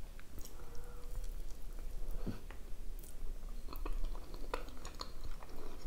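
A person chewing a bite of syrnik (cottage-cheese pancake), close to the microphone, with scattered small mouth clicks.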